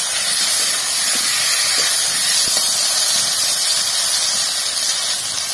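Wet spice paste, potatoes, onion and tomato sizzling in hot oil in a kadai: a steady, loud hiss, with a couple of faint ticks from the metal spatula stirring.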